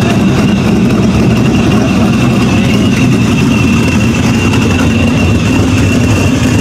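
Car engine idling steadily and close by, with a thin, steady high whine running over the low rumble.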